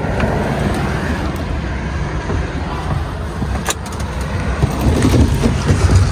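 Steady low rumble of motor-vehicle noise, with a sharp click a little under four seconds in.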